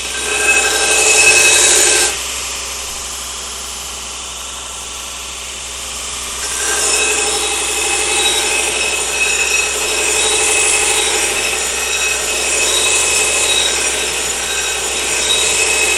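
Belt grinder running, with a knife blade pressed to the belt where it rides over the bare aluminum wheel: a harsh grinding hiss with high whining tones. The grinding eases off about two seconds in, leaving the belt running on its own, and comes back strongly after about six and a half seconds. Grinding on the aluminum wheel like this wears the belt down fast.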